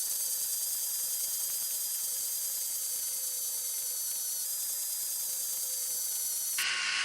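Small high-speed power tool motor running steadily with a high whine, its pitch changing abruptly near the end.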